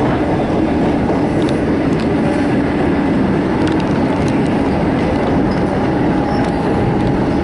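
Suburban electric train running at speed, heard from inside the carriage: a steady rumble with occasional clicks from the wheels over the rails.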